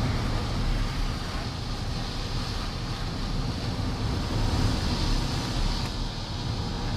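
Typhoon wind blowing hard in uneven gusts, with a heavy low rumble.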